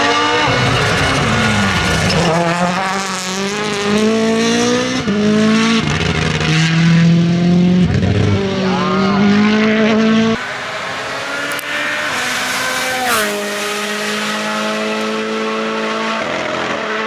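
Rally car's turbocharged four-cylinder engine at full throttle, its note climbing and dropping back through several quick upshifts. About ten seconds in the sound changes abruptly to a steadier engine note, which falls sharply in pitch a few seconds later as the car lifts and shifts down.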